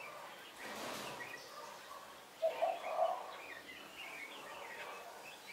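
Birds calling: a low three-note cooing call about two and a half seconds in, with higher chirps scattered throughout. A brief rustle comes about a second in.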